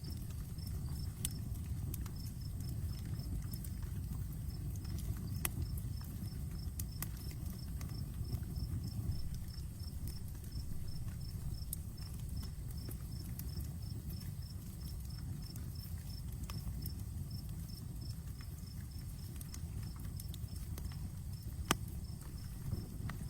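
Outdoor wood campfire burning: a steady low rush of flames with sparse sharp crackles and pops, one louder pop near the end. An insect chirps steadily in the background, about four chirps a second.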